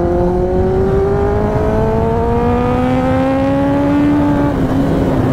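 Kawasaki sportbike engine accelerating hard, its note rising steadily for about four and a half seconds, then dropping back slightly and holding near the end.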